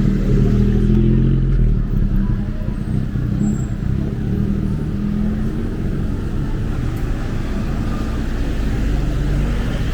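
Road traffic close by: vehicle engines running over a steady low rumble. One engine is loudest in the first two seconds, and others come and go later.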